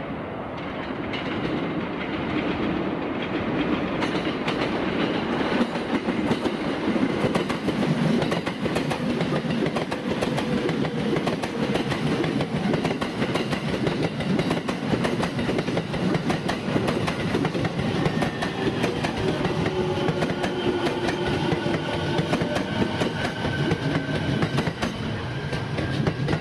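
JR East E231-series electric multiple unit running, its wheels clattering over rail joints in a rapid run of clicks. A thin electric whine rises slowly in pitch over the last several seconds.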